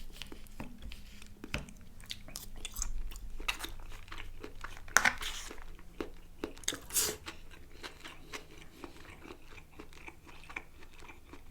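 Close-miked chewing and biting of food, with wet crackles, lip smacks and a few sharper crunches about five and seven seconds in.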